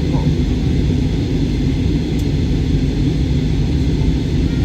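Steady low rumble of a jet airliner in flight heard from inside the passenger cabin: engine and airflow noise.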